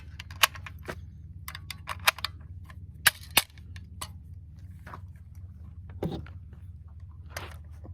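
A string of irregular, sharp clicks and taps over a low steady hum: the handling of guns and gear at the range, not gunshots.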